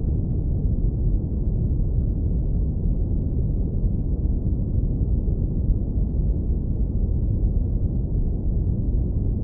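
Steady synthetic brown noise, low-pass filtered to a deep, even rumble with almost nothing in the higher frequencies.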